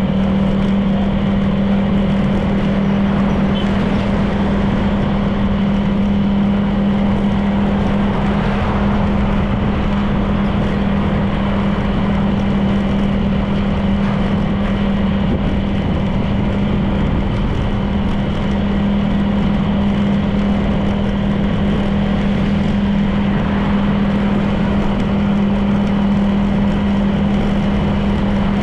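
Honda PCX 160 scooter's single-cylinder four-stroke engine running at a steady speed, with a constant low tone under continuous wind and road noise.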